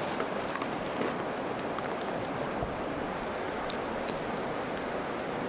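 Steady rain with a few scattered faint drip ticks.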